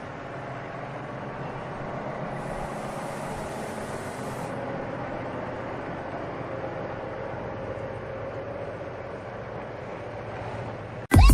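Steady engine and road noise of a tractor-trailer heard from inside the cab while driving, with a brief hiss about two seconds in; music cuts in abruptly at the very end.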